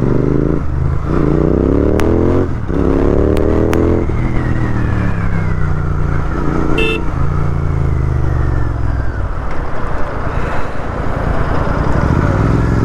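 Royal Enfield GT 650 parallel-twin engine accelerating hard, its pitch climbing twice through quick upshifts, then easing off and falling as the bike slows. A short horn beep sounds about seven seconds in.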